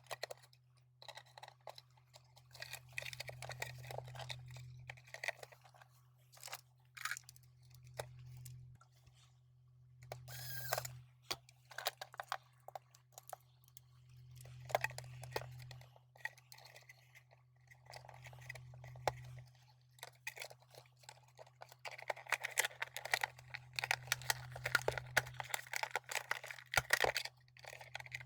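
Plastic case of a 12 V DC power supply being handled, fitted and screwed back together: irregular clicks, scrapes and rattles, busiest near the end, with a low hum that comes and goes several times.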